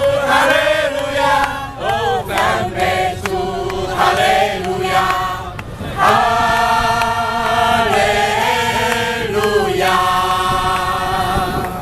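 A group of voices singing a Chinese worship song together, with the notes held long and steady in the second half.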